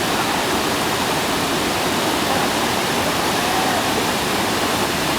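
Bopath Ella waterfall rushing close at hand: a steady, loud roar of falling water over rocks.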